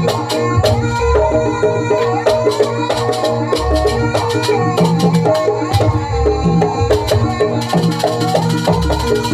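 Jaranan ensemble music: drums and struck percussion with a sustained melody line over a repeating pattern, a deep low stroke coming every two to three seconds.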